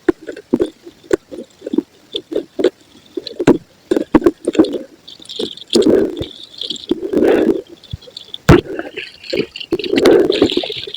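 Soft white concrete being crumbled and crushed: a quick run of short crunches and crackles, with longer crumbling crushes about six, seven and ten seconds in.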